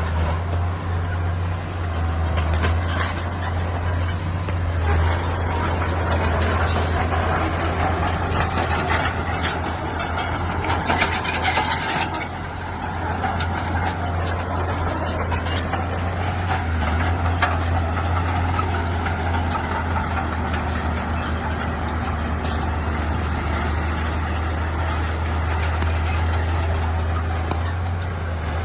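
Heavy diesel earthmoving machinery running steadily under work, with a deep engine drone and scattered knocks and rattles over it.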